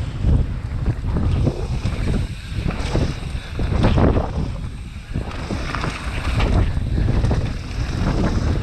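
Wind buffeting the microphone during a fast mountain-bike descent, a heavy uneven rumble, with irregular knocks and rattles from the bike running over the trail.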